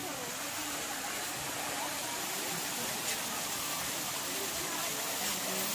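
A steady outdoor hiss, like rushing water or wind, with faint distant voices.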